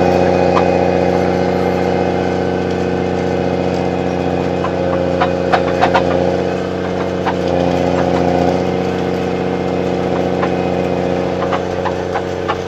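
Snowcat engine running at a steady speed, with a few brief clicks about halfway through and again near the end.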